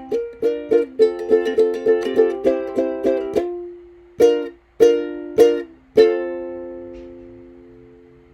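Strummed ukulele music: quick rhythmic chords, then four separate chords, the last one left to ring and slowly fade.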